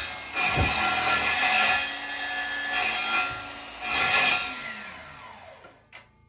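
Power saw cutting through wood in several loud passes, then the motor winding down with a falling whine. A short knock comes near the end.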